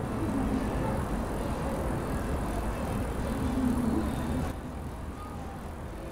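Street ambience: a steady low rumble of traffic, which drops quieter suddenly about four and a half seconds in.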